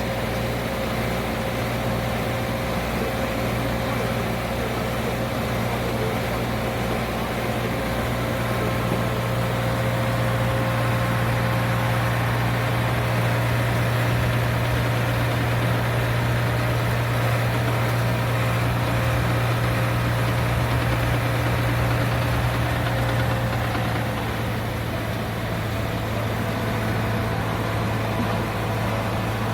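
Vehicle engine running steadily: an even low drone with a few steady higher tones, holding the same level throughout.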